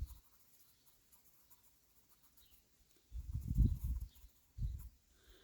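Faint scratching of a colored pencil shading on sketchbook paper. About three seconds in comes a low rumbling thump lasting about a second, and a shorter one near the end.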